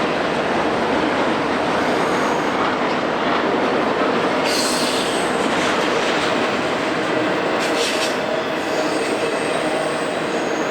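Intermodal freight train rolling past: a steady rumble of wheels on rail, with short high-pitched wheel squeals about four and a half and eight seconds in.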